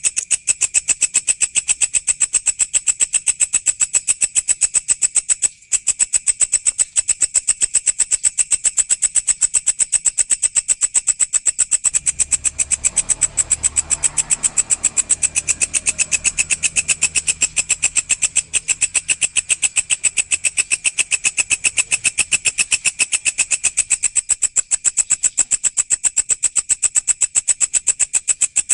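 Walang (an Indonesian grasshopper) calling: a fast, very even train of high, shrill pulses, about six a second. There is one brief break about five and a half seconds in.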